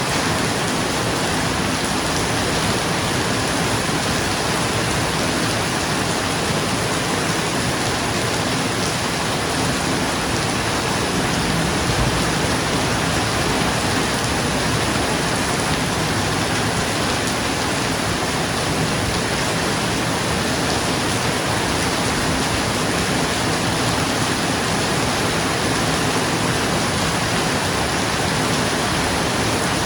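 Steady, dense rain falling on a roof: an even, unbroken hiss with no thunder.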